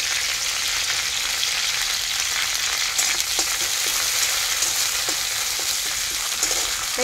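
Chopped curry leaves sizzling steadily in hot oil in a kadai, stirred with a metal spatula that gives a few light scrapes against the pan.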